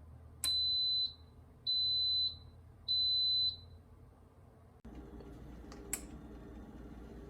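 An electronic beeper sounds three long, high, even beeps about a second apart, with a sharp click just before the first; another click comes near the end.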